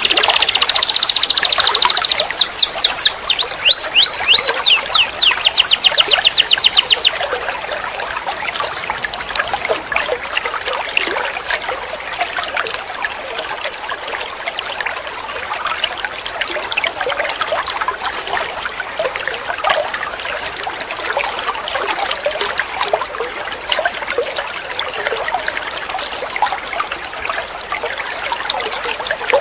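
Domestic canary singing loudly for about the first seven seconds, with held whistled notes and then fast rolling trills of rapidly repeated notes. The song stops, and a steady trickling-water sound carries on with faint bird chirps in it.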